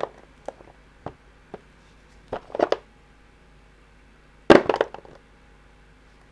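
Small plastic hobby paint pots being handled on a desk: a few light knocks and clicks, then two short bursts of clatter, the louder one about four and a half seconds in.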